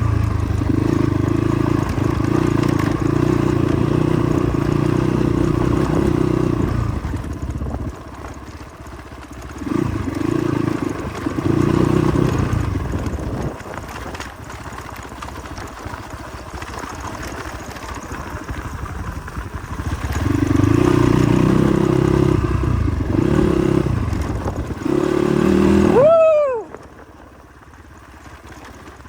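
Motorcycle engine running under load on a rough ride. The throttle opens and eases off several times, with a dip about 8 seconds in and another around 13 to 20 seconds. Near the end a quick sweep in pitch is followed by the sound falling sharply quieter.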